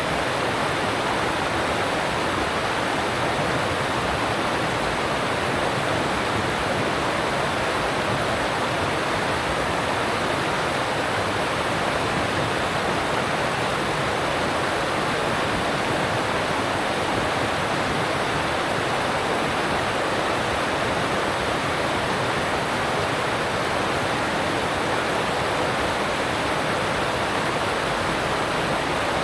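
Alpine stream rushing over rocks: a steady, even rush of water that doesn't change.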